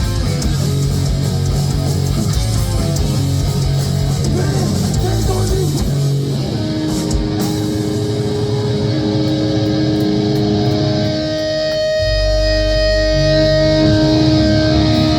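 Heavy metal band playing live: distorted electric guitar and bass riffing with drums. About six seconds in, the riffing gives way to long held guitar notes, and a low bass note is sustained under them near the end.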